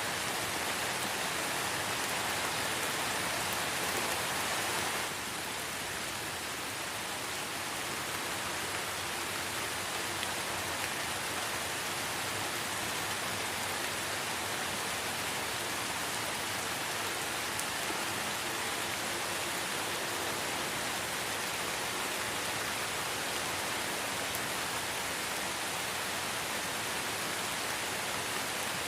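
Steady light rain falling in a forest, an even hiss of many drops with no single loud event. The level dips slightly about five seconds in and then holds steady.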